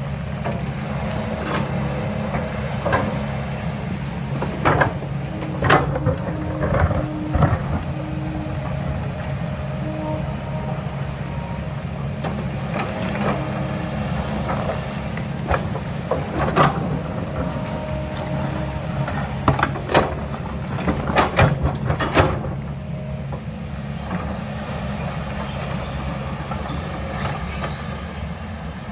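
Diesel engine of a heavy earthmoving machine running steadily under work, with repeated sharp clanks and knocks of digging equipment working soil and rock, bunched about a fifth of the way in and again about three-quarters through.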